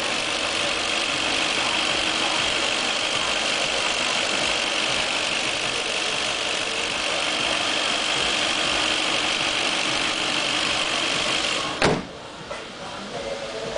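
Audi S4's 4.2-litre V8 idling steadily in the open engine bay, with a steady high whine over the engine noise. About twelve seconds in the hood shuts with a sharp bang, and the engine sound drops and is muffled.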